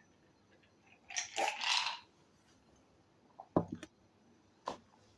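A drinking glass knocked and set down on a table: a few sharp clinks and knocks, the last one near the end, after a short breathy rush about a second in.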